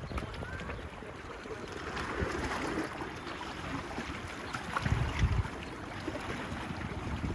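Small waves washing on a beach, with wind buffeting the microphone in a short gust about five seconds in.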